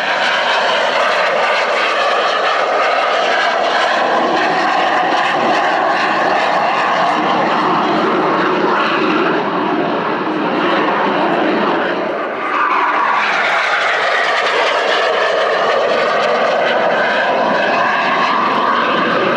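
Jet aircraft engines running loud and steady, with a high whine over the roar. The sound dips briefly and changes character about twelve seconds in.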